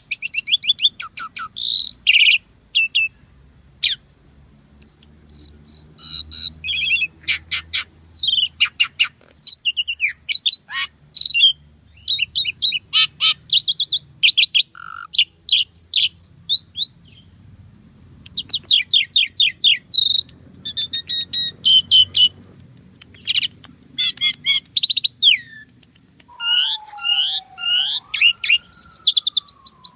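Asian pied starling (jalak suren) singing in full voice: long runs of fast chattering, squeaky and harsh notes broken by short pauses, with a slow whistle that glides down and back up near the end.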